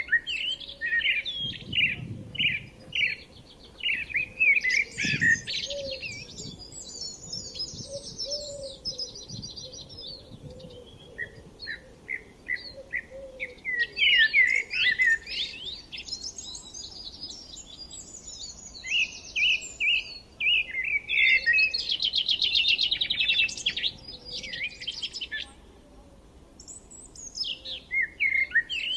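Several songbirds singing over one another: quick chirps and whistled phrases, with fast rattling trills a third of the way in and again past two-thirds, then a brief lull near the end.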